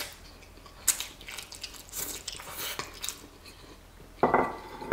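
A person eating a mouthful of creamy fettuccine: wet chewing and smacking mouth sounds, with sharp clicks scattered through. A short hummed sound comes near the end.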